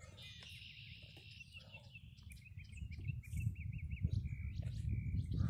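Songbirds singing in repeated high trills and warbling phrases, over a low rumbling noise that grows louder through the second half.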